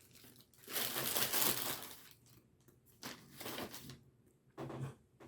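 Paper sandwich wrapper crinkling and rustling as it is handled, in three bursts, the longest about a second in.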